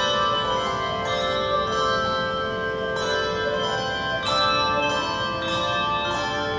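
Handbell choir playing a piece: many handbells struck in chords and runs, each note ringing on and overlapping the next.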